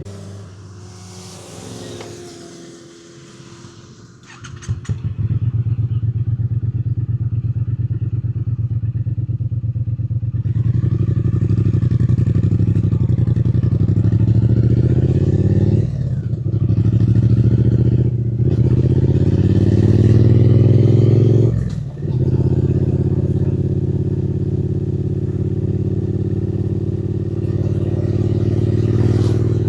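Triumph Speed Twin 900's parallel-twin engine, quiet for the first few seconds, then pulling away about four seconds in and accelerating. It rises in pitch and dips briefly at three gear changes in the middle, then climbs again.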